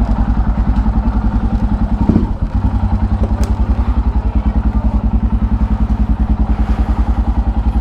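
Motorcycle engine idling with a steady, even pulsing beat, with a brief bump about two seconds in.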